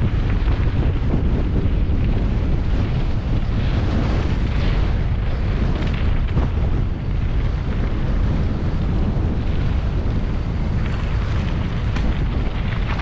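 Mountain bike descending a dirt trail at speed: wind rushing over the microphone and tyres rumbling over the ground, with scattered rattles and clicks from the bike.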